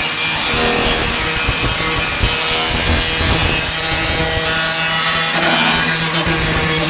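Angle grinder with a metal grinding wheel running steadily against sheet steel, grinding continuously.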